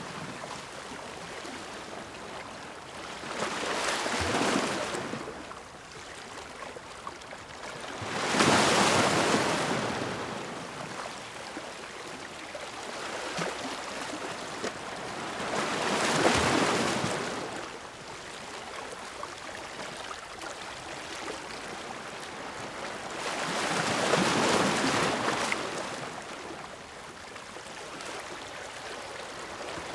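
Sea waves breaking against rocks: four waves surge in and wash back at intervals of several seconds, with a steady hiss of surf between them.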